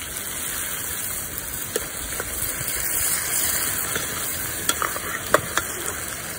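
Chicken frying in a kadhai with a steady sizzle. A few brief sharp clicks come through it, one about two seconds in and three close together near the end.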